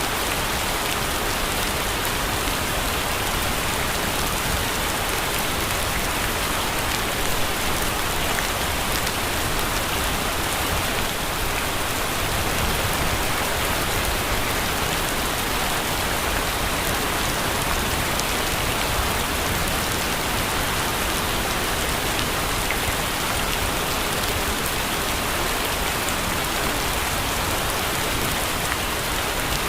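Steady rain falling, an even hiss with many small drops ticking.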